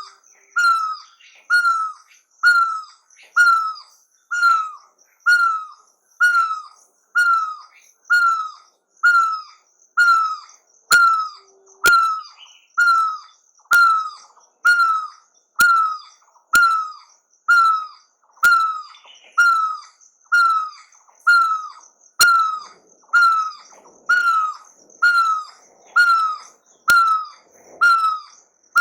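A bird calling one short, falling note over and over, very evenly, a little more than once a second.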